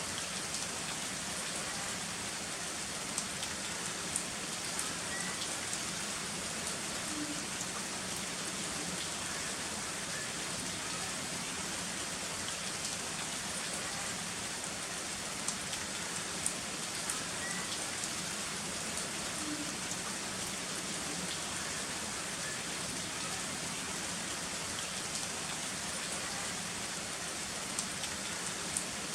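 Heavy rain falling steadily, with now and then a louder drop ticking.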